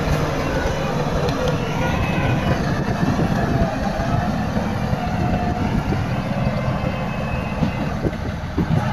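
Heavy diesel earthmoving machinery at work: a bulldozer or dump truck engine running steadily under load.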